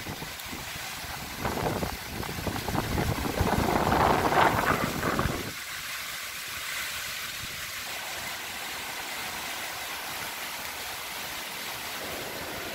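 Strong gusting wind buffeting the microphone, with rumbling gusts that swell about four seconds in. After about five seconds the rumble cuts off abruptly, leaving a steady rushing hiss of wind.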